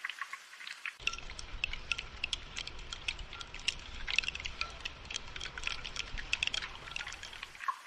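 Rain dripping and pattering in many small, irregular ticks. From about a second in until shortly before the end, a low steady rumble runs underneath and cuts off abruptly.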